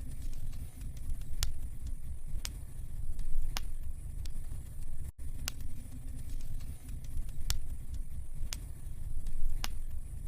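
Wood fire burning in a fireplace, crackling with sharp pops about once a second over a steady low rumble.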